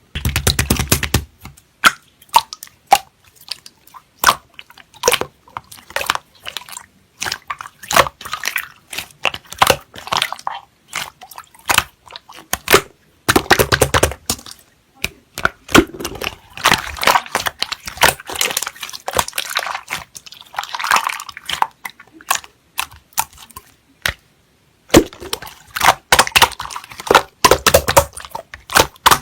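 Slime being squeezed and pressed by hand: a fast, irregular run of sticky clicks and crackly pops, with denser wet squelching stretches and a brief pause about three-quarters of the way through.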